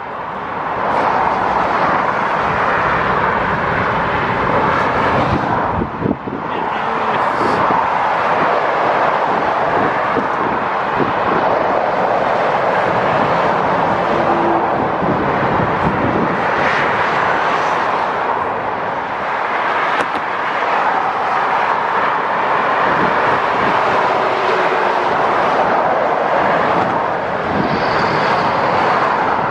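Steady road-traffic noise, a loud even rush of tyres and wind with no clear engine note, briefly dipping about six seconds in.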